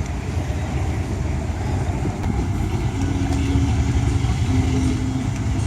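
Steady low engine rumble. Two short, faint steady tones come in about three and four and a half seconds in.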